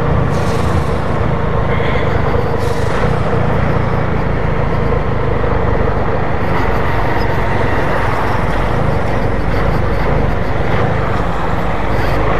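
Small motorcycle's engine running steadily under way, with wind rushing over the microphone.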